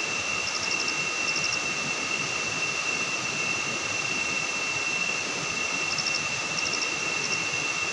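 Forest ambience: a steady rushing noise, with a constant high-pitched insect drone and a few small clusters of rapid high chirps, mostly near the start and near the end.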